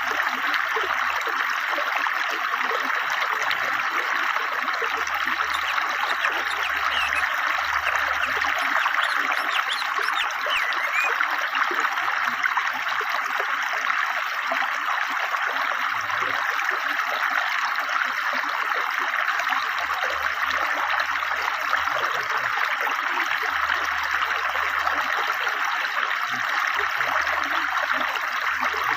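Swiftly flowing river water: a steady, unbroken rushing and babbling.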